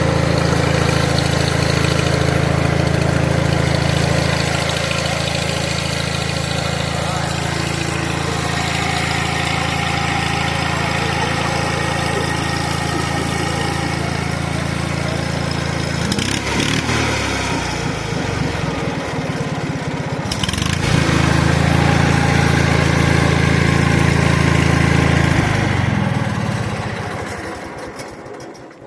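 Shaw Du-All tractor's engine running steadily after a rope start. It slows and wavers about two-thirds of the way through, picks up again, then runs down and stops near the end.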